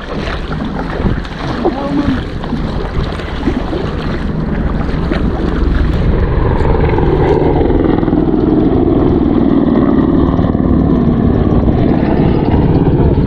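Engine drone that builds up about halfway through and then runs steadily, after a few seconds of irregular splashing and wind-buffeted sound.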